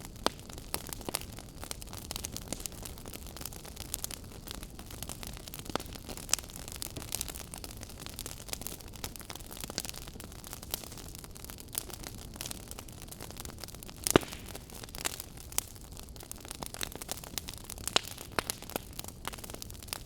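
Wood fire burning in a fireplace: a steady low rush of flame with irregular sharp crackles and pops from the burning logs, one louder pop about 14 seconds in.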